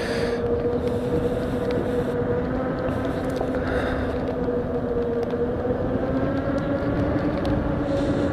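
Electric motor of a HappyRun F18 Pro e-bike whining steadily under way, its pitch rising a little near the end, over the rush of wind on the microphone.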